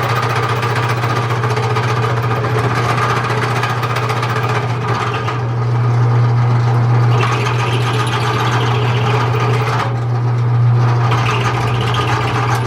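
Engine idling steadily, with a slight swell about halfway through.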